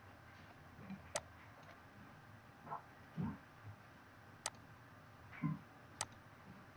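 Computer mouse clicking: three sharp single clicks a second or more apart, with a couple of softer low thuds in between.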